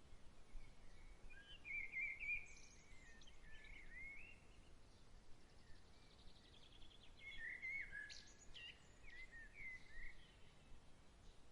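Songbirds singing faintly: sliding, warbling chirps in two bouts, with a fast trill between them, over a faint steady outdoor background.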